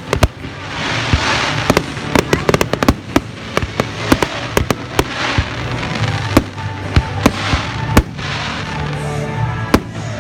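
Fireworks display: a rapid, irregular string of sharp bangs and cracks, with hissing, crackling swells about a second in and again around five seconds, over music playing in the background.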